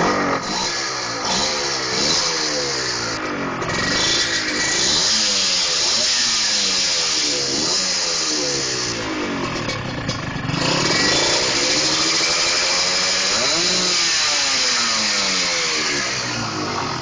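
Honda NSR R two-stroke single-cylinder engine breathing through a galvanised TNHM expansion-chamber exhaust, revved again and again in quick blips that rise and fall in pitch, with a longer, higher rev about two-thirds of the way through.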